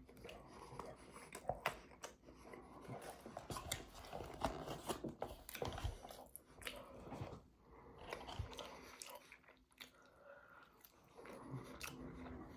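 A person chewing and biting food close to the microphone, with irregular crunches.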